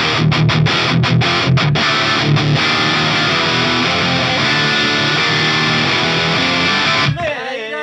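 Distorted electric guitar played through a Soldano SLO-100 clone amp. It opens with a choppy riff of short, stopped chords, then a held chord rings out until it cuts off about seven seconds in. A voice follows right after.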